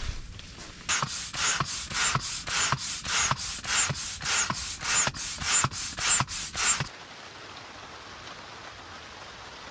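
Rhythmic scraping strokes, about three a second, that stop abruptly near seven seconds in and give way to a steady even hiss.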